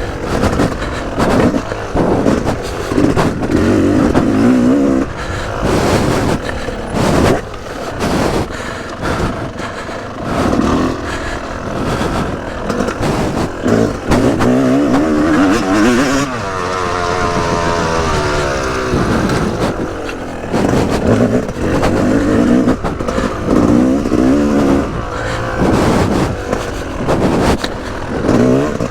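Yamaha YZ250 single-cylinder two-stroke motocross engine revving hard and backing off again and again as the bike rides a track, its pitch rising and falling, with knocks and buffeting throughout.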